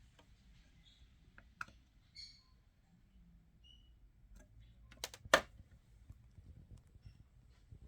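Faint scattered clicks with a louder sharp double click about five seconds in, and a few short, high chirps.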